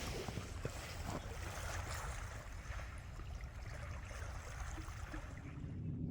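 Steady outdoor wash of wind and lake water, with no distinct events.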